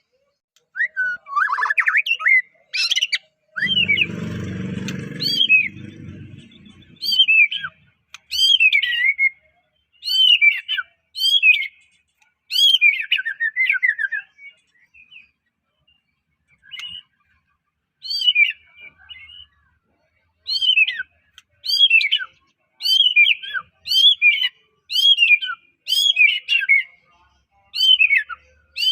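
White-rumped shama (murai batu) singing: short, clear whistled phrases with quick downward and upward sweeps, coming about once a second, with a pause of a few seconds near the middle. A low rumbling noise runs under the song for about two seconds, starting about four seconds in.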